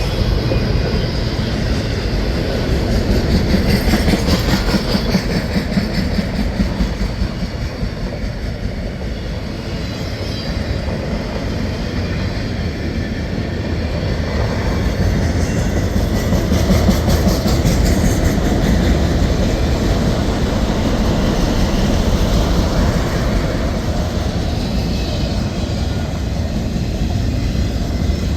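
Freight train of empty autorack cars rolling steadily past on a curve: a continuous rumble of steel wheels on rail.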